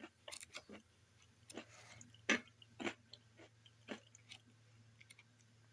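Crackers being chewed: quiet, irregular crunches, with a faint steady low hum underneath.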